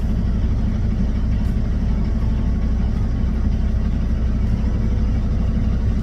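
Semi truck's diesel engine idling steadily, a constant low rumble.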